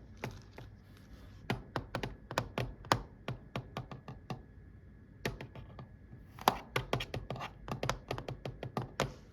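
Computer keyboard keys being typed: irregular sharp key clicks, several a second, with a short lull about halfway through.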